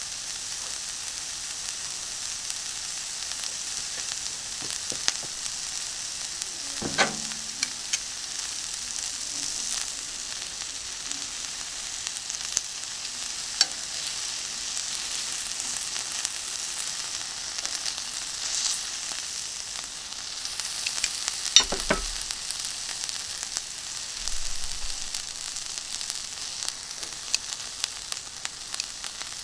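Kalbi beef sizzling on a hot iron griddle, a steady hiss with fat popping and spitting. Two sharper knocks sound about 7 seconds in and again a little past the middle.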